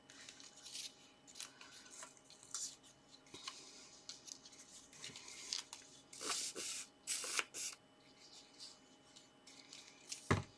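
Paper and card being handled: rustling and sliding in short bursts, the strongest a few seconds past the middle, with one sharp tap near the end.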